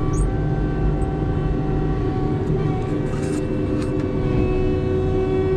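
A vehicle engine running at a steady speed, with a couple of faint clicks about halfway through.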